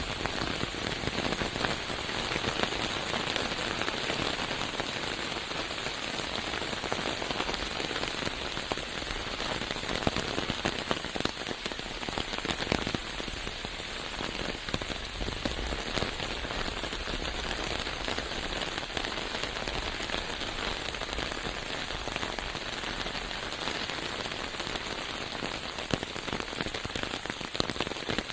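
Steady rain falling: an even hiss dotted with the taps of many individual drops.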